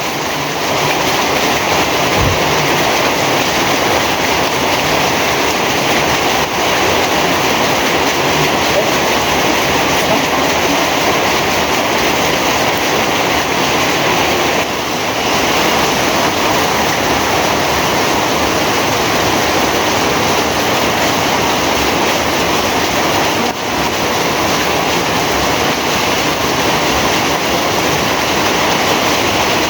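Heavy rain falling, a loud, steady, dense hiss with no breaks.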